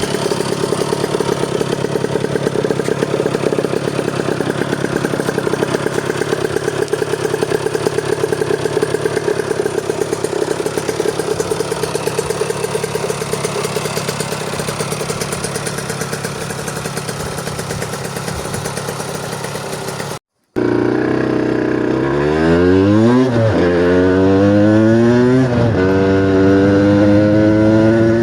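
Rieju RV 50's small two-stroke engine running at steady high revs, held at the rev cut-off, for about twenty seconds. After a sudden short break it revs up, drops back and revs up again, the pitch rising and falling.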